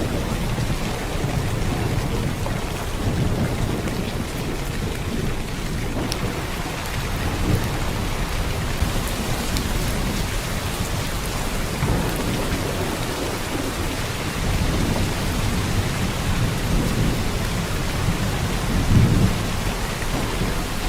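Heavy downpour of rain, a steady dense hiss of drops on surfaces. Deep rumbles swell and fade under it every few seconds, the strongest about nineteen seconds in.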